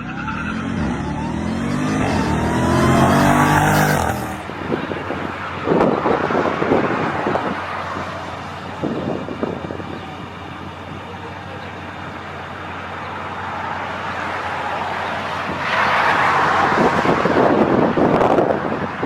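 Jeep Grand Cherokee Trackhawk's supercharged 6.2-litre V8 accelerating hard from a launch, its pitch rising steadily for about four seconds. It then cuts to rushing wind and road noise with a few short bumps.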